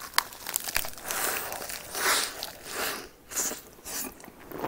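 Close-miked biting and chewing of naengchae jokbal, cold sliced pig's trotters with vegetables: a run of irregular crunching bites and chews.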